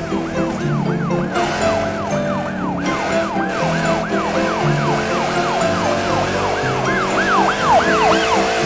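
Police siren in a fast yelp, its pitch sweeping up and down about three to four times a second, over a children's song's backing music. The siren grows a little louder near the end.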